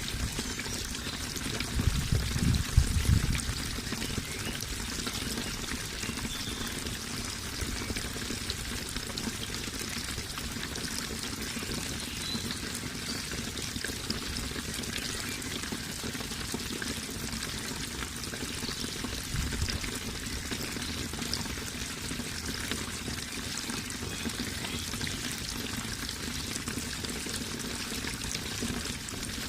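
Water flowing and trickling steadily, with a brief low rumble about two to three seconds in, the loudest moment, and a fainter one near twenty seconds.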